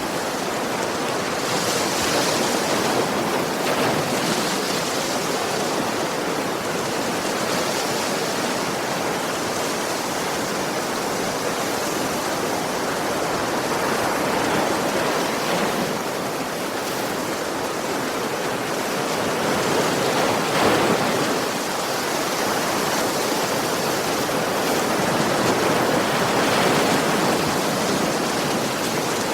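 Ocean waves washing on a shore: a steady rush of surf with gentle swells in loudness every several seconds as waves break.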